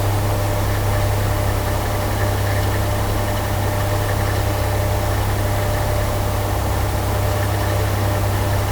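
A household electrical appliance running steadily: a constant low hum with a faint higher tone over an even noise.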